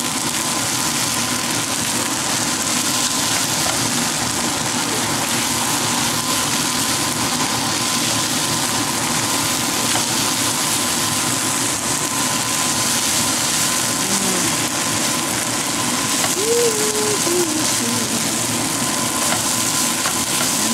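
Fried rice sizzling in a hot wok while a spatula stirs and tosses it: a steady frying hiss.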